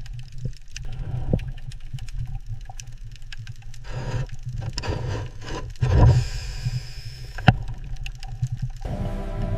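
A steady low rumble under scraping and knocking, with a hissing stretch about six seconds in and one sharp knock shortly after; music with sustained tones comes in near the end.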